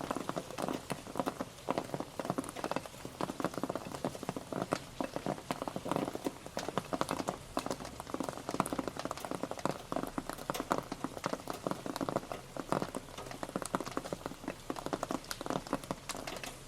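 Rain pattering steadily on a surface: a dense run of individual drop taps.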